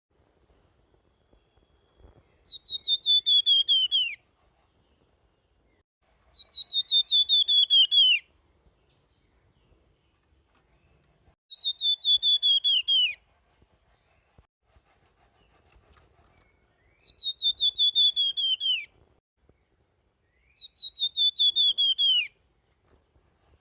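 A flamboyan (golden-bellied gerygone) singing five times. Each song is a quick series of about ten thin, high whistled notes that slide down in pitch and lasts about a second and a half, with a few seconds of quiet between songs.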